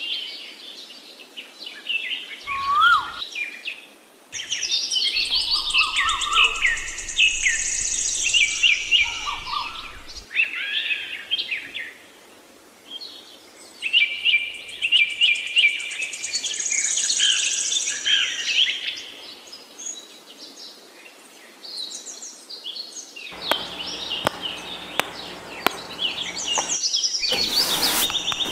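Birds singing and chirping in repeated quick phrases, with a run of sharp clicks near the end.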